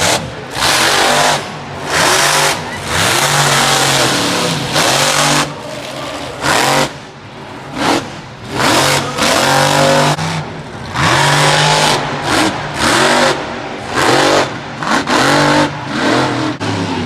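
Monster truck engine revving hard in repeated throttle bursts, its pitch rising and falling with each one and dropping back briefly between them.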